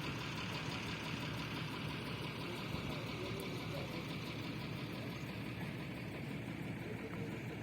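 A large vehicle engine idling steadily, with faint voices in the background.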